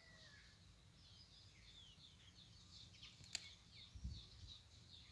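Faint outdoor quiet with small birds chirping in the background, short high chirps throughout and a few descending whistles near the start. A single sharp click comes a little over three seconds in, and a low thump follows about a second later.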